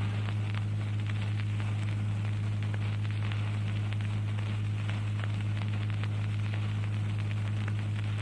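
Steady electrical hum with hiss and a light scatter of crackle clicks: the background noise of an old recording or amplifier, with no voice.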